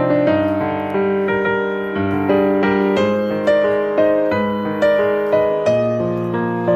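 Background music: a gentle piano melody over held chords, notes sounding in a slow steady rhythm.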